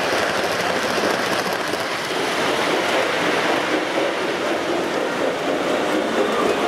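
O gauge model trains running on the layout's track: a steady rolling noise of wheels on rail.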